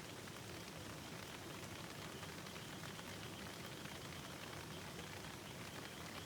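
Steady rushing of a river, an even wash of water noise, with a faint steady high note above it and a few faint ticks.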